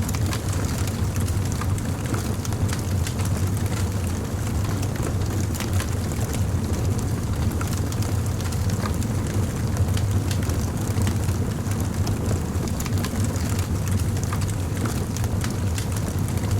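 Fire crackling, with frequent small irregular pops and snaps over a steady low rumble.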